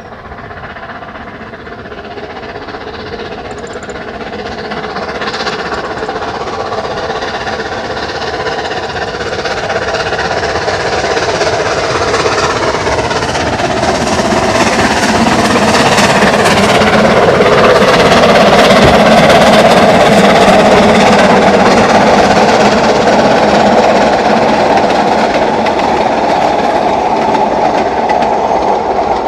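Narrow-gauge steam train approaching and passing close, the locomotive working with a rapid beat. It grows steadily louder and is loudest about two-thirds of the way through.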